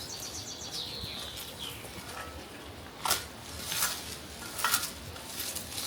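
A small bird calling: a quick run of high ticks, then a falling high note, followed by a few sharp knocks.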